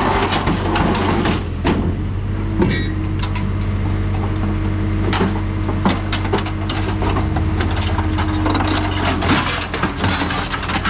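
Hydraulic scrap-metal shear working through its cutting cycles: the machine's engine runs steadily underneath, a hydraulic whine holds from about two and a half seconds in to about nine seconds, and sharp metal clanks and cracks come repeatedly as the blades cut and crush the scrap.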